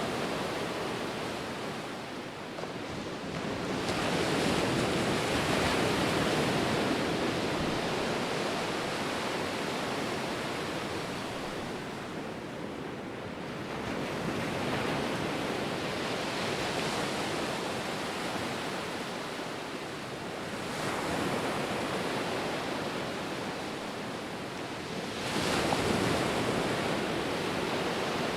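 Ocean surf: waves breaking and washing in as slow swells of rushing noise. A surge comes about four seconds in, smaller ones follow midway, and the loudest breaks near the end.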